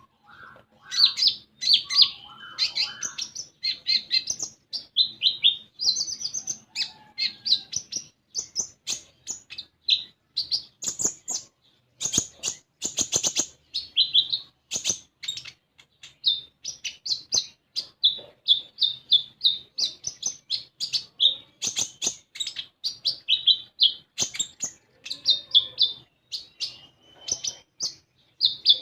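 Konin (common iora) singing energetically: a fast, continuous string of high-pitched chirps and short trills with only brief pauses.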